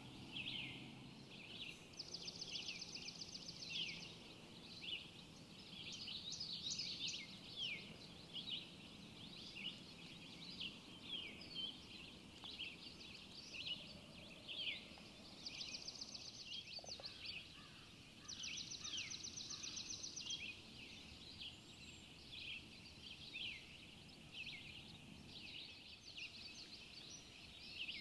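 Morning birdsong from several songbirds: a busy mix of short high chirps and whistled notes, with a fast dry trill lasting about two seconds that comes in near the start, twice in the middle and again at the end.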